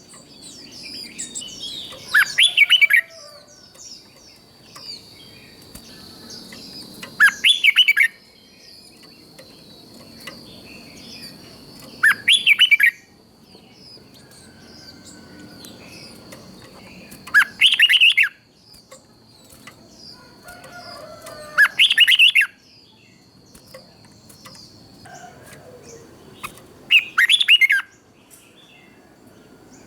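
Red-whiskered bulbul singing: six loud, short, warbled song phrases about five seconds apart, with softer bird chirps between them. A thin steady high tone runs underneath and fades out near the end.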